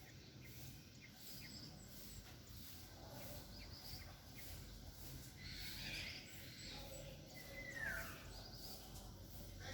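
Birds calling faintly: scattered short high chirps, and near the end a single louder call that slides down in pitch, over a low background rumble.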